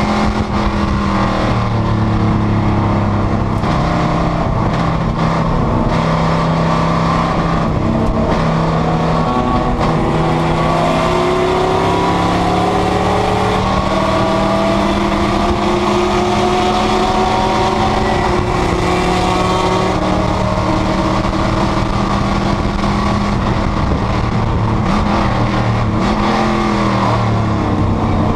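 Panoz GTS race car's V8 engine under hard acceleration, its pitch climbing and then stepping down at each upshift, with the note falling away near the end as the car slows.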